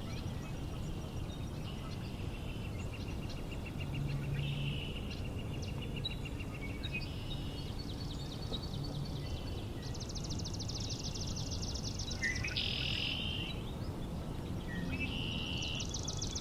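Several songbirds singing at once, with swamp sparrows' even, ringing trills among them, over a steady low background noise.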